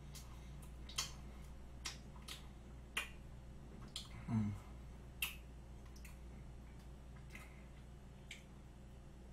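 Mouth sounds of someone chewing chocolate cream cake: scattered sharp wet clicks and smacks, roughly one a second, with a short low hum from the eater about four seconds in, over a faint steady low hum.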